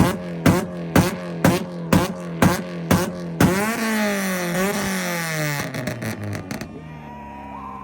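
Honda Accord's engine held on a two-step launch limiter: a steady high engine note broken by loud exhaust bangs about twice a second. A little over three seconds in it breaks into a free rev that climbs and falls back, crackling as it drops off near the end.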